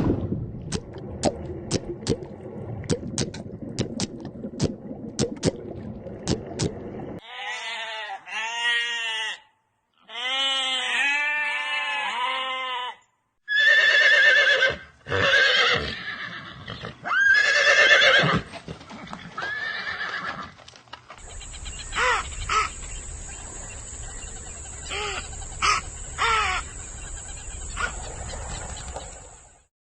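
A string of farm animal calls in short cuts, one after another, among them a horse neighing. Near the start come sharp clicks, and the middle holds repeated rising-and-falling calls.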